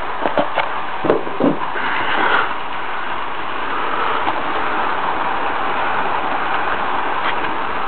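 HO-scale model train running along the track: a steady whirr of the locomotive's motor and wheels on the rails, with a few clicks in the first second and a half.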